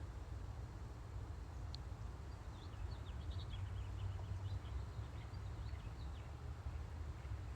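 Small birds chirping, a quick run of short high calls from about two to six seconds in, over a steady low rumble.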